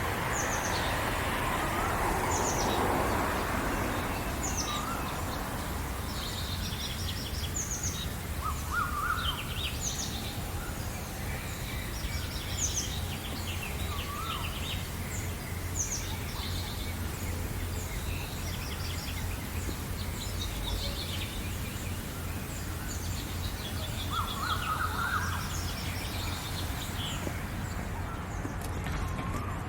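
Several songbirds chirping and singing in a morning chorus: many short, high chirps and trills, with a few lower calls now and then. A rush of noise swells over the first few seconds, and a steady low rumble runs underneath.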